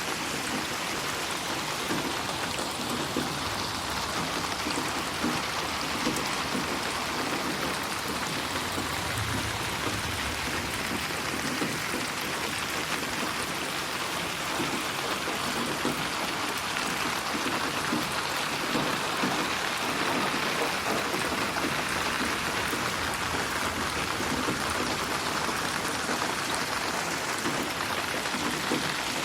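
Steady rain falling, an even hiss of many drops with scattered closer drop patter.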